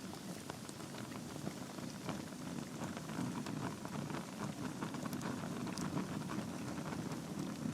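Log fire burning in a fireplace, with many small crackles and pops over a steady low rush of flame.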